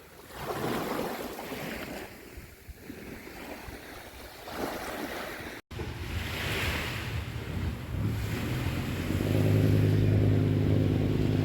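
Small waves washing in on a beach in swells, with some wind on the microphone. After an abrupt cut about halfway, a steady engine hum comes in and grows louder from about two-thirds of the way through.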